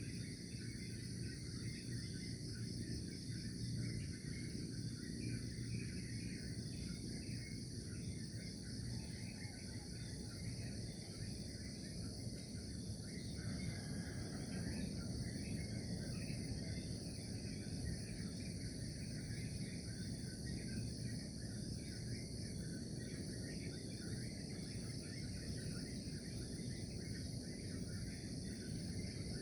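Steady chorus of crickets trilling continuously, with scattered bird chirps and a low, even background rumble.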